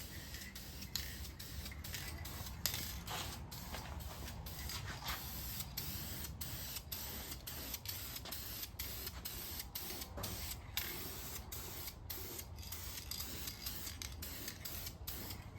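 Aerosol can of high-heat engine paint spraying, a steady hiss broken by many brief pauses between passes.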